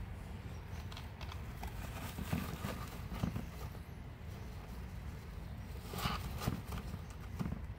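Faint, irregular taps and scuffs of a baby parrot's feet and claws as it walks about on a hard surface.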